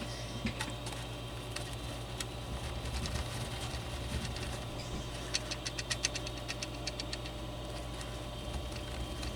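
Steady low electrical hum, with a run of quick light clicks from about five seconds in to near the end as the circuit board is shaken and tapped to make wet UV glue run underneath a component.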